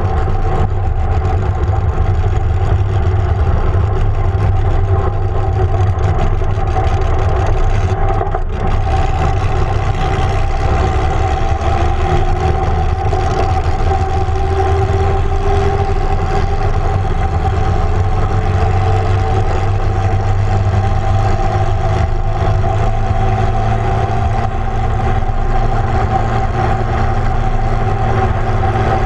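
Holden grey motor straight-six with triple carburettor stacks, running steadily at low revs in a front-engined dragster as it rolls along, heard close up from the cockpit.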